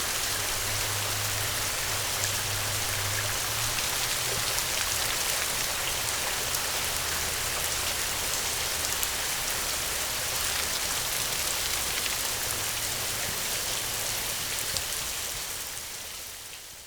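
Steady heavy rain falling, with a low rumble underneath; it fades out over the last two seconds.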